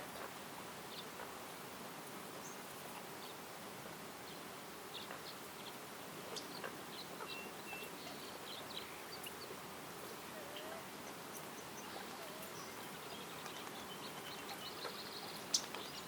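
Woodland ambience: scattered short, high bird chirps and calls over a steady soft hiss, with a quick trill and a single sharp click near the end.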